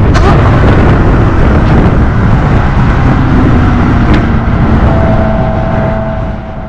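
McLaren 570S twin-turbo V8 with an Armytrix decat exhaust running loud and heavy, dying away near the end.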